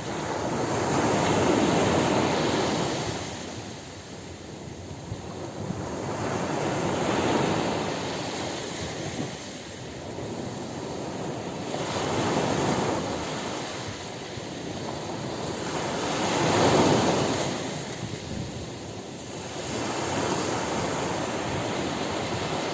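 Ocean surf breaking on a beach: four waves swell and wash back, one about every five seconds, the last of them the loudest.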